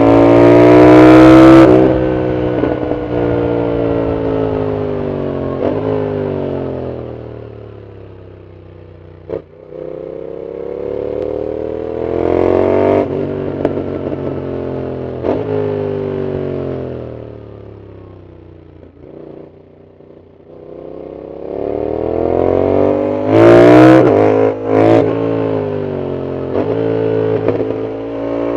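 Yamaha MT-07's 689 cc CP2 parallel-twin engine through an aftermarket Arrow full exhaust, heard from the rider's seat, accelerating and rolling off several times with its pitch climbing and falling. There is a sharp crack about nine seconds in and a couple of abrupt breaks in the note a little before the end, as the throttle is cut.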